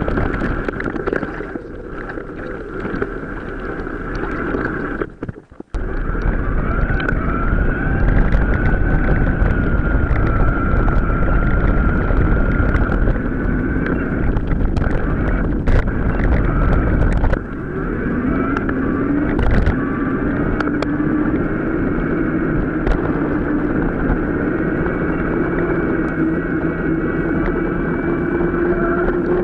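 Riding noise from a mountain bike on an off-road track, played back at several times normal speed: wind buffeting the microphone, rattling and clicks over the ground, and a steady whine running through it. The sound drops out briefly about five seconds in.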